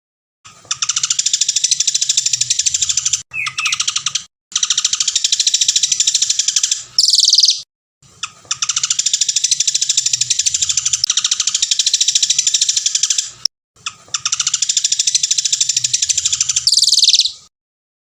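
Songbird singing long, very rapid trills in four phrases of several seconds each, separated by short pauses, two of the phrases ending in a brief higher, brighter note.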